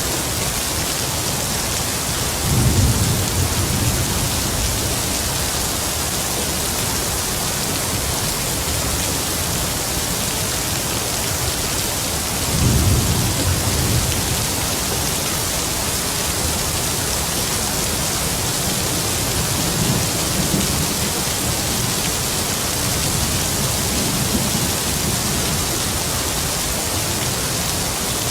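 Heavy rain falling with a steady hiss, with low rumbles of distant thunder rolling in. Two stronger rumbles come about three seconds and about thirteen seconds in, and fainter ones follow later.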